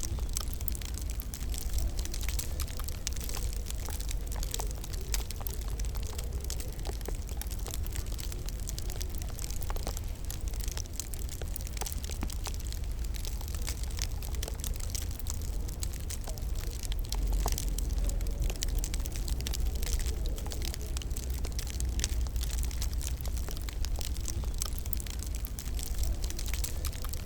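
Wood fire crackling in a fireplace: frequent irregular small pops and snaps over a steady low rumble of the flames.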